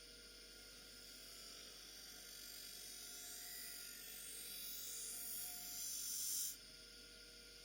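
Faint hissing rub of a steel knife edge against a spinning MDF sharpening wheel charged with buffing compound on a bench grinder. It grows louder over several seconds and cuts off abruptly near the end.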